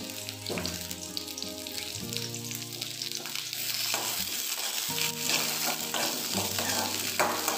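Sliced onion, ginger and garlic sizzling in hot oil in a steel kadhai. The sizzle grows louder about halfway in, when a steel ladle starts stirring and scraping against the pan.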